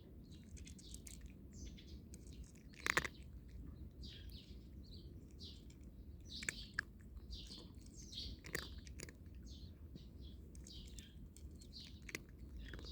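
Small birds chirping over and over, with a few sharp crunches of a cat chewing dry kibble; the loudest crunch comes about three seconds in.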